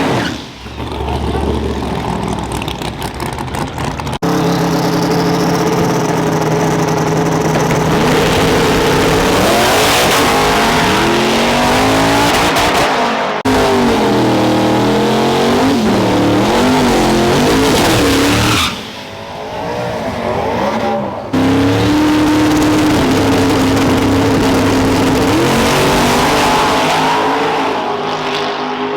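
Drag-racing trucks' engines, loud: held at a steady high rev for several seconds, then revving up and down, in several short stretches that change abruptly.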